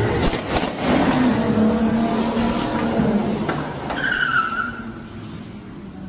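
Car on the road with its engine running and tyres skidding, with a short high squeal about four seconds in.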